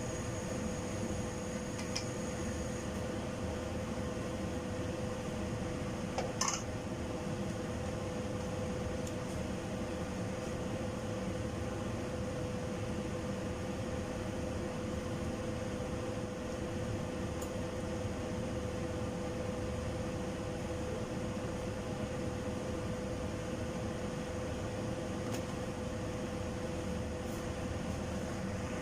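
Steady fan-like hum with a constant tone, and a single sharp clack about six and a half seconds in.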